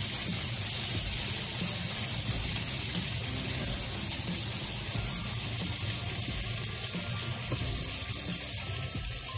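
Sliced onions and floured herrings frying in oil in two pans: a steady sizzle, with the onions being stirred.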